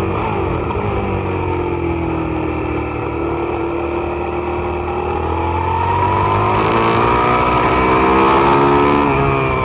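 Suzuki SV650's V-twin engine under way on track. The revs fall in the first few seconds, hold, then climb steadily through a long pull, with a rising hiss of wind. Near the end the revs drop sharply as the throttle closes or the bike shifts.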